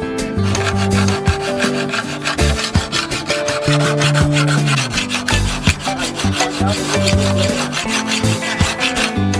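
Rapid hand rasping or filing strokes, scraping continuously over steady background music.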